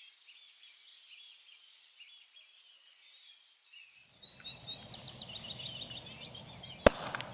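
Small birds chirping and twittering. About four seconds in a rough, steady noise comes in under them, and near the end there is one sharp click.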